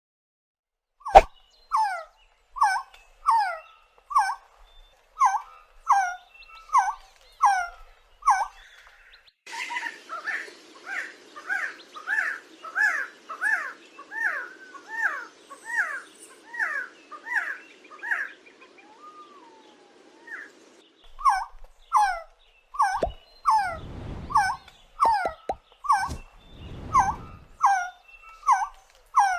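A bird calling over and over, one short slurred note about twice a second, with a band of background hiss through the middle stretch and two brief low rumbles near the end.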